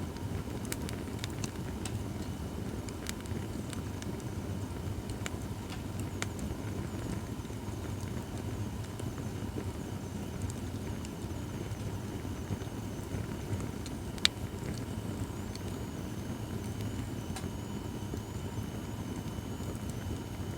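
Acacia firewood burning in a campfire stand: a steady low rumble of flames with scattered small crackles and one sharp pop about two-thirds of the way through. A faint wavering high whistle comes in over the last few seconds.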